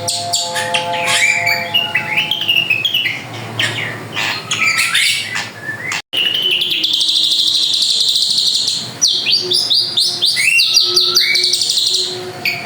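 A drongo singing a dense, varied stream of whistles, chirps and sliding notes. There is a brief cut in the sound about six seconds in, after which the song carries on.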